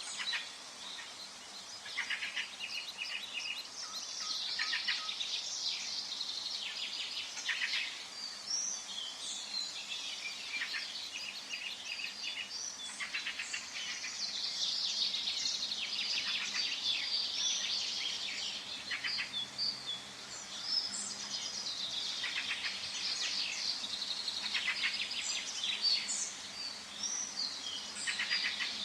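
Forest birdsong: many birds calling and singing at once, a dense, overlapping chorus of high chirps and quick trills over a faint steady hiss.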